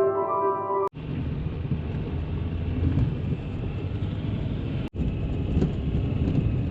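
Music stops about a second in, giving way to a steady low rumble that drops out for an instant about four seconds later.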